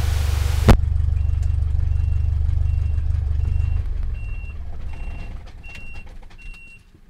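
Light-aircraft engine droning low through the cabin, dying away over the second half, with a short high electronic beep repeating about every 0.7 s. A sharp click about a second in cuts off a hiss.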